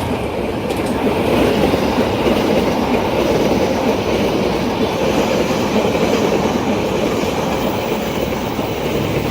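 Train running past on the rails, a steady loud rumble of wheels and cars.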